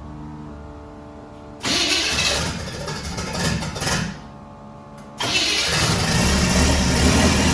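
Turbocharged V8 of a 1962 Chevy cranking on the starter, then catching about a second and a half in and running loud. It sags near the middle and catches again, running strongly to the end. It fires on the new distributor now that plug wires 5 and 7, which had been swapped, are in the right places.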